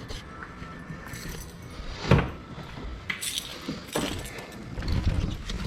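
Car keys jangling and clinking as they are handled, with a few knocks, the loudest about two seconds in.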